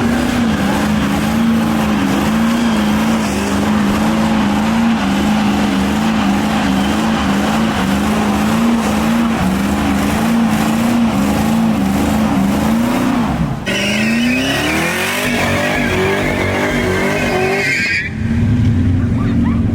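Car engine held at high revs, its pitch wavering up and down, over loud tire squeal, as in a car doing donuts or a burnout. Near the end the sound changes abruptly twice: an engine rising in pitch as it accelerates, then a steady engine note.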